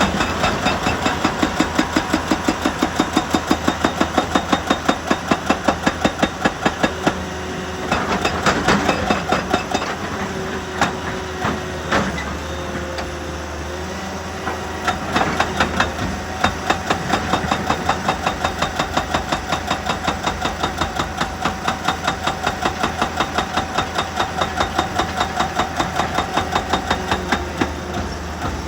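Heavy rock-working machinery pounding in a rapid, even rhythm of about five strokes a second over a running engine, stopping and restarting a few times.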